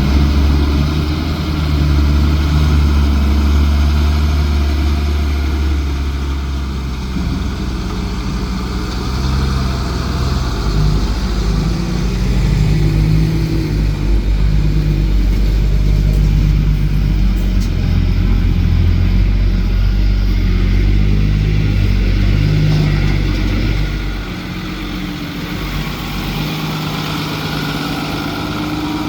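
Heavy engine running under changing load, its pitch stepping up and down as it revs, easing off about 24 seconds in.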